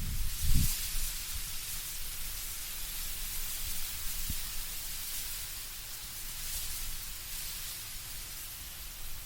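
Wind moving through autumn trees, leaves rustling in a steady soft hiss, with a brief low rumble of wind about half a second in.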